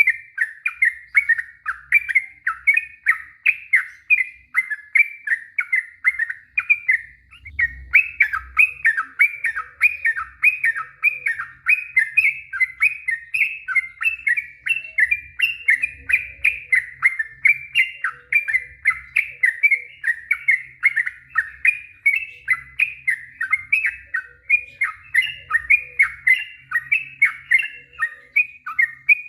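Sooty-headed bulbul singing a long, unbroken run of quick chirping notes, about four a second, with one brief pause about seven seconds in.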